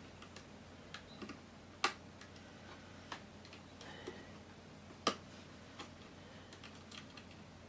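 Faint, scattered small clicks and taps of laptop parts being handled while a keyboard ribbon-cable connector is seated, with two sharper clicks, one about two seconds in and one about five seconds in.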